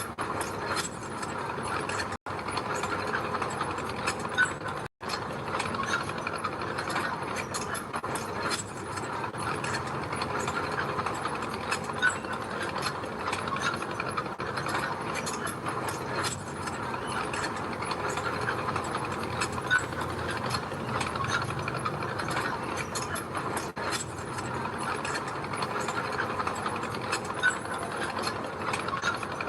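Bulldozer working, its steel crawler tracks clattering in a dense, steady stream of rapid clicks and rattles over the diesel engine's low rumble.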